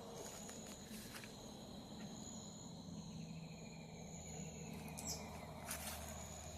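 Insects trilling at dusk: a high trill comes and goes in bouts of about a second, over a steadier lower trill. A few brief rustles come near the end.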